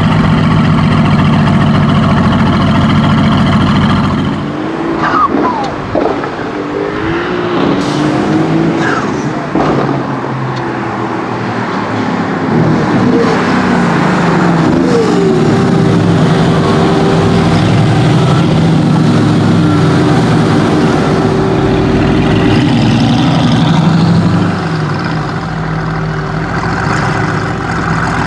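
Tuned Mercedes-AMG GT S twin-turbo V8 running: a steady engine note, then after about four seconds the pitch swings up and down several times as the revs change, before settling again.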